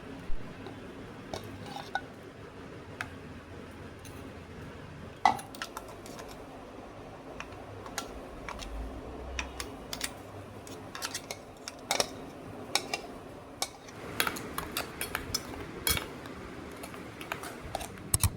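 Kitchenware clinking and knocking: utensils tapping against dishes and pots in short sharp strikes, scattered at first and coming more often in the last few seconds, over a steady low hum.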